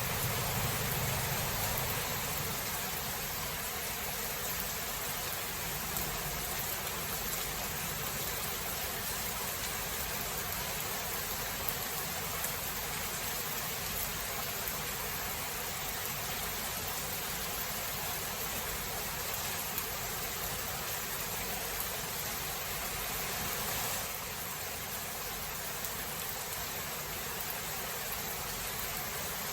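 Steady hiss of heavy rain, with the tail of a low thunder rumble dying away in the first couple of seconds.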